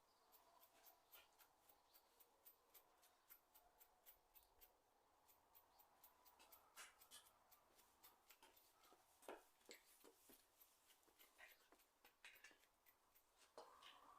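Near silence, broken by many faint, irregular clicks and light scrapes, the kind made by handling small parts, with a slightly louder click about nine seconds in.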